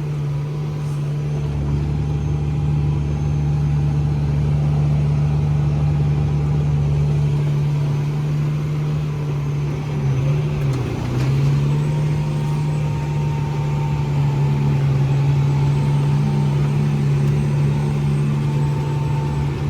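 Case IH Magnum 340 tractor's diesel engine running steadily under load while pulling a land roller, its pitch dipping briefly about halfway through before it settles back.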